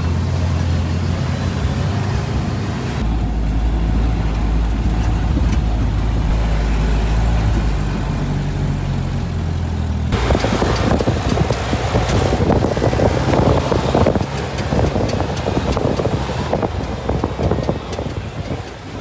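Jeep engine running low and steady while driving slowly along a sandy trail. From about ten seconds in, a rougher rattling noise from the ride grows louder for several seconds, then eases.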